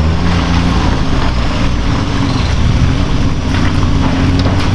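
Off-road truck engine running steadily, its pitch stepping up and down a few times, with a steady hiss over it.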